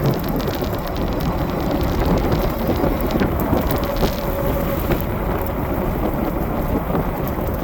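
Rain noise with many sharp raindrop ticks close on the microphone, over a dense, steady low rumble.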